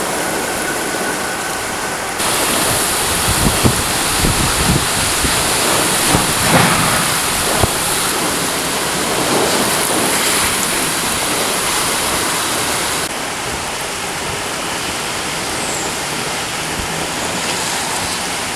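Torrential rain pouring down in a steady dense hiss, with gusts of wind buffeting the microphone now and then. The sound jumps louder about two seconds in and drops a little near thirteen seconds.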